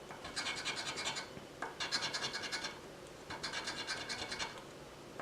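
Scratch-off lottery ticket being scraped in three quick bursts of rapid back-and-forth strokes, about a second each, with short pauses between.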